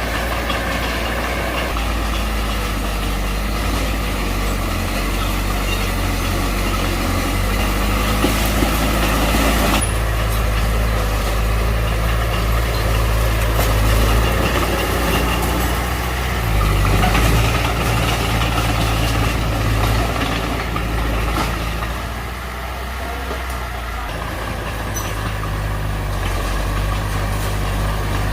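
Diesel engine of a Mitsubishi BD2F bulldozer running steadily while the machine works soil, its engine note shifting a few times as the load changes.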